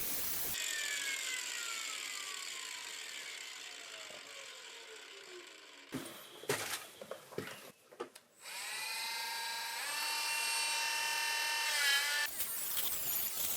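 Handheld electric power tool winding down with a falling whine, then a few clicks and knocks, then spinning back up with a rising whine that settles into a steady high whine before stopping near the end.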